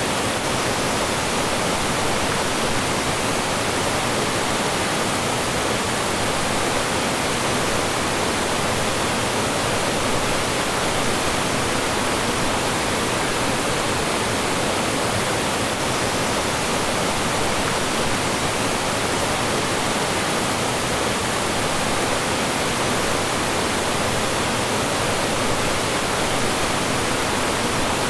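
Mountain stream rushing and splashing over rocks in a steady, even wash of water noise.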